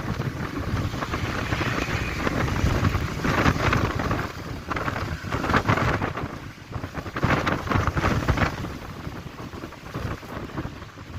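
Strong gusty wind buffeting the microphone, a loud low noise that surges and eases every second or two.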